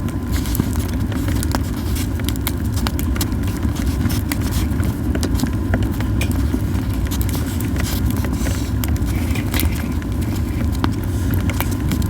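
Yew-wood campfire crackling, with sharp pops and snaps scattered irregularly over a steady low rumble.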